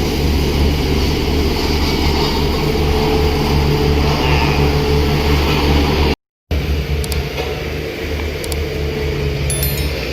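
A steady, low engine drone, broken by a sudden dropout to silence for about a third of a second around six seconds in.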